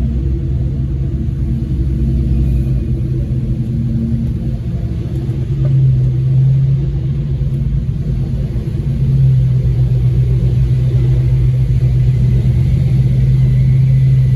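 Car engine running steadily with a deep, low exhaust drone, which swells slightly a few seconds in and again later on.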